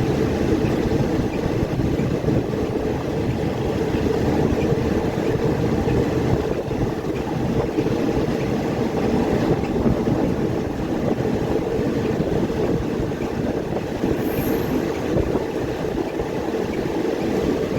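Passenger train running along the track, heard from aboard, a steady rushing rumble of wheels and moving air.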